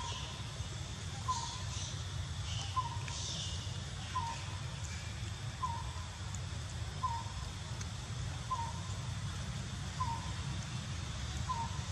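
Outdoor ambience: a bird repeats a short single note about every one and a half seconds over a steady low rumble, with a few high chirps in the first few seconds.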